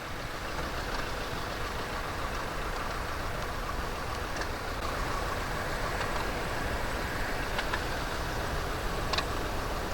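Antique farm tractor engines idling steadily.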